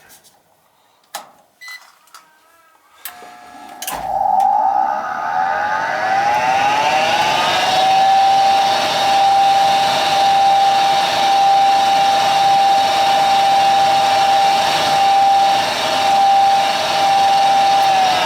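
York 90+ gas furnace's fan motor starting up after a few clicks about four seconds in, its whine rising in pitch over several seconds as it spins up and then holding steady.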